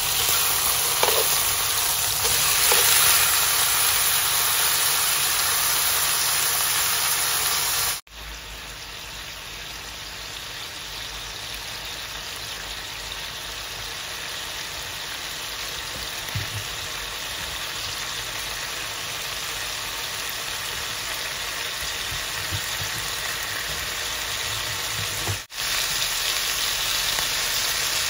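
Beef steak and vegetables sizzling steadily in a hot ridged grill pan. The sizzle drops quieter about eight seconds in and comes back louder near the end.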